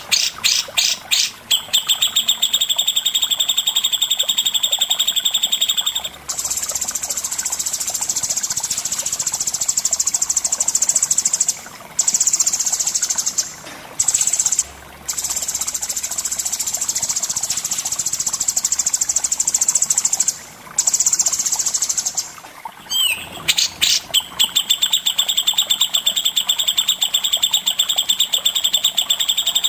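Songbird calls from a masteran recording of cucak jenggot and cendet: fast, high, repeated trills, giving way about six seconds in to a long harsh rattling chatter (the 'besetan' call) with a few short breaks. Near the end come rising notes and the quick trills again.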